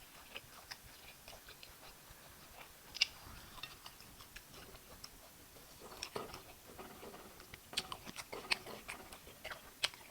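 Close-up eating sounds: a mouth chewing fufu and soup meat, with scattered wet smacks and clicks that grow busier and louder in the second half.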